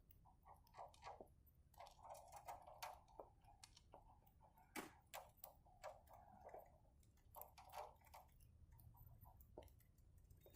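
Faint, irregular clicks and cracks of budgerigars husking and chewing sunflower seeds.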